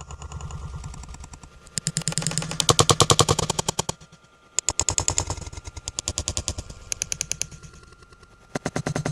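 Eerie night-time clatter: runs of rapid rattling knocks, about ten a second, each run lasting a second or two with short gaps between. The loudest run comes about three seconds in.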